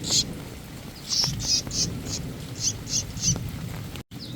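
A caught common tailorbird giving a run of short, high-pitched chirps, about nine in quick succession. There is a low, steady noise underneath.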